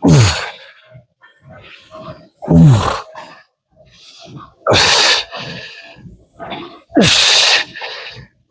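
A man's forceful voiced exhalations, one with each repetition of a leg exercise: four loud, hissing grunts about two seconds apart, each starting with a falling pitch.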